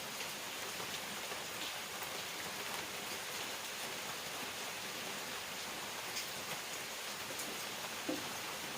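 Steady rain falling, a constant hiss with scattered single drops ticking through it; one drop lands a little louder about eight seconds in.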